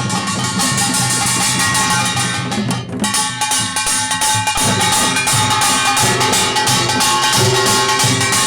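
Korean pungmul percussion band playing in the Jeolla Jwado style: small gongs (kkwaenggwari) clanging rapidly with lasting metallic ringing, over janggu hourglass drums and barrel drums. The playing thins briefly about three seconds in, then picks up again.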